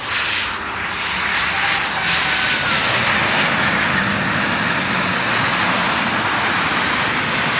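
Airliner engines passing close by: a loud rushing noise that swells over the first two seconds and then holds steady.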